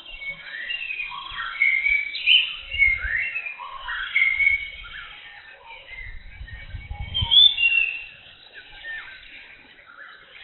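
Several birds chirping and whistling in quick, overlapping calls that rise and fall in pitch. A low rumbling noise comes in twice, about three seconds in and again near seven seconds.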